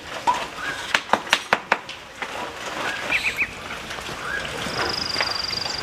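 Knife or cleaver chopping on a board in quick strikes, about five a second, stopping about two seconds in. Short calls from poultry follow, with a thin high trill near the end.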